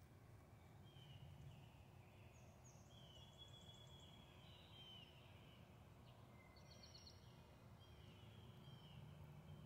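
Near silence with faint bird calls: scattered short chirps, whistles and trills from small birds, over a steady low background rumble.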